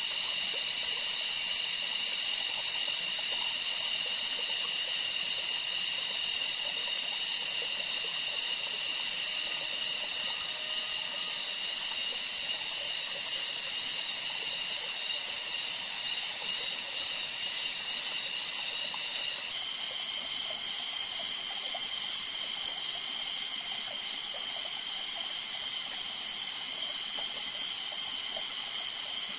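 A steady high-pitched hiss with several held high tones over it, shifting abruptly to a new set of tones about two-thirds of the way through.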